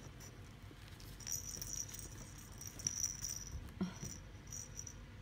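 A small jingling toy rattling in short, irregular bursts, with a brief sound rising in pitch a little under four seconds in.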